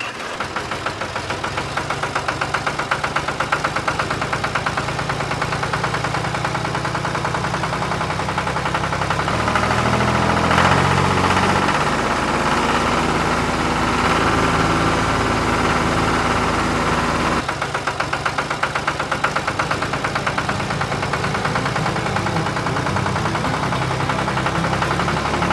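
Small engine of a mini tractor running with a fast, even chugging pulse. It gets louder and shifts pitch about ten seconds in, and the sound changes abruptly about seventeen seconds in.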